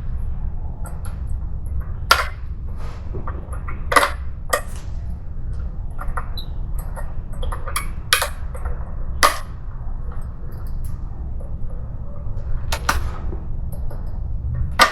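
Hand grinder working an aluminium cylinder head's exhaust port with an abrasive bit made for steel: a steady low hum with irregular sharp clicks and scrapes as the bit bites the alloy.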